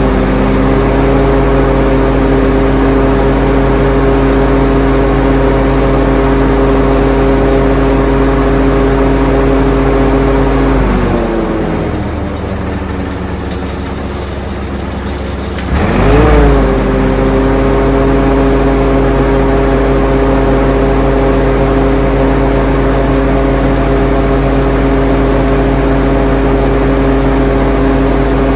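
Lincoln SA-200 welder's engine running warmed up with its muffler still on, a steady loud engine note. About ten seconds in it slows to a lower idle, then around sixteen seconds it speeds back up to its higher running speed and holds steady.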